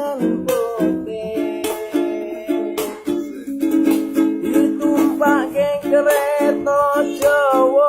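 Busker's small ukulele-type instrument strummed in a steady rhythm, with a wavering melody line over the chords, as the introduction to a song.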